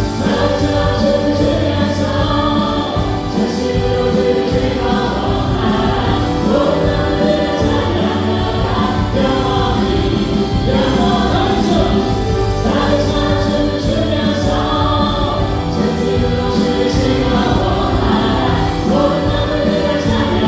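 Contemporary worship band playing a praise song, with singers over keyboards, electric guitar, bass and drums.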